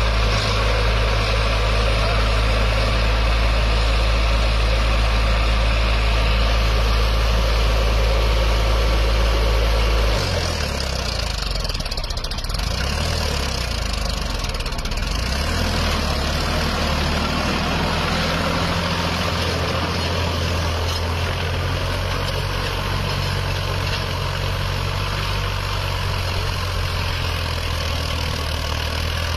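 Modified tractor engine running with a loud, steady low drone; about ten seconds in the note changes and wavers in pitch for a few seconds, then settles into a steady drone at a different speed.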